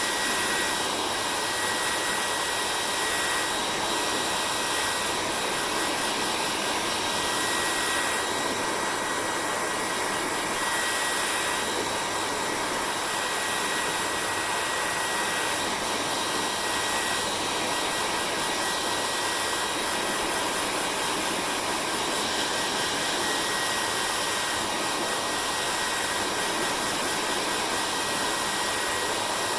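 Hair dryer running steadily: a continuous rush of blown air with a thin, steady high whine from the motor.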